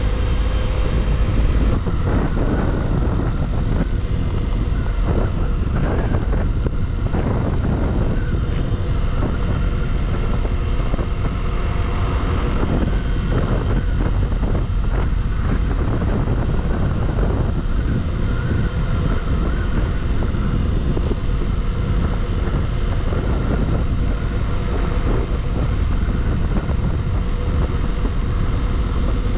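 Single-cylinder Bajaj Pulsar motorcycle running steadily at cruising speed, with strong wind rushing over the microphone in uneven gusts.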